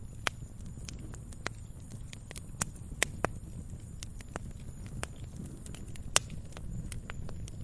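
Campfire burning with irregular sharp crackles and pops over a steady low rumble of flames; the loudest pops come about three seconds in and again a little after six seconds.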